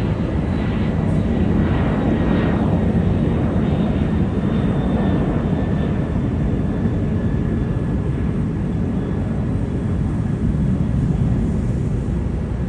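Aeroplane engine noise: a steady loud rumble with a faint high-pitched whine over it.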